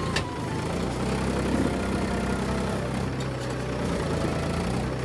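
Mahindra tractor's diesel engine running steadily under heavy load, the tractor bogged down and sinking in. There is one sharp click just after the start.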